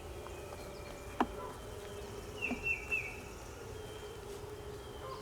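Honeybees buzzing around an open nuc hive, a steady hum. A single sharp click comes a little over a second in, and three short high chirps come about halfway through.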